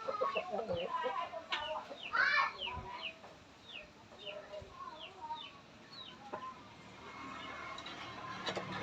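Chickens clucking and calling in a quick series of short falling calls, with a louder call about two seconds in. A low steady hum comes up near the end.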